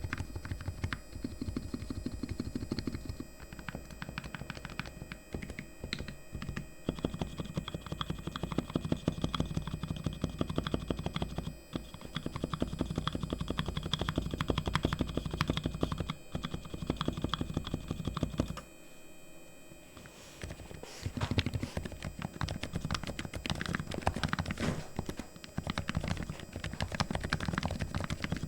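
Fast typing on a fully lubricated Razer Huntsman V2 Linear keyboard, its linear optical switches giving a rapid run of key strokes. The typing stops for about two seconds a little past two-thirds of the way through, then picks up again.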